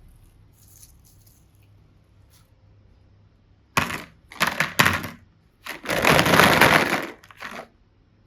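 Crackling, crunching noises: three short bursts a little past halfway, then a longer one of about a second and a half, and a last short one.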